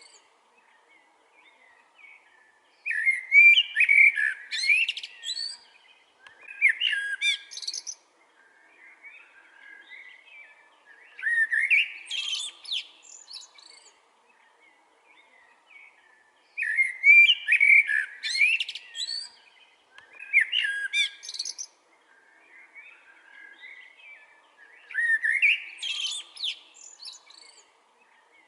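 Blackbird singing: loud, varied song phrases of two to three seconds, repeated every few seconds, with softer twittering in the pauses between.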